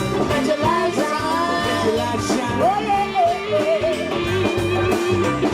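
Live band playing, with a singer's wordless gliding vocal runs over guitar, bass and drums.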